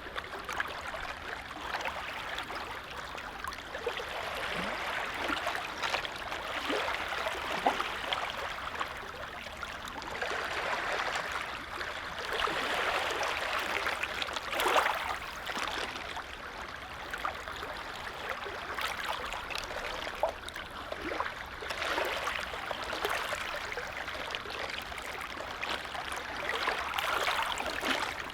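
Small lake waves lapping at the water's edge: a soft watery wash that swells and eases every few seconds, with little splashes and gurgles.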